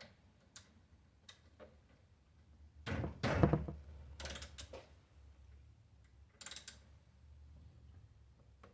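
Handling of a bicycle and its parts: light clicks and knocks, with a louder clatter about three seconds in and shorter ones about four and six and a half seconds in.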